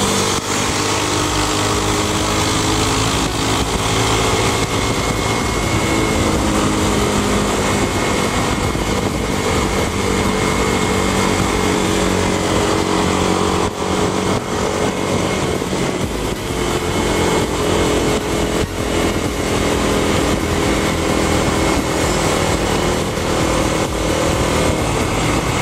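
Honda CB300's single-cylinder engine running on the move, its pitch drifting gently up and down with the throttle, over steady wind rush on the helmet microphone.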